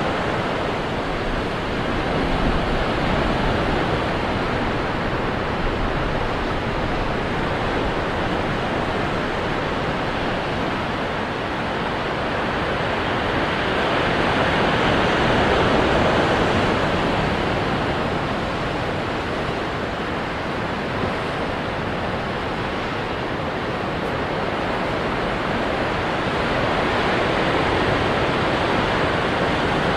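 Ocean waves breaking on rocks: a continuous rushing surf that swells and eases slowly, loudest about halfway through and again near the end.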